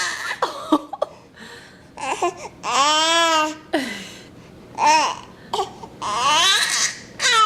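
Three-month-old baby fussing: a string of whiny, arching vocal cries and babbles with pauses between, two of them drawn out, one about three seconds in and one near the end, which his mother reads as him being sad.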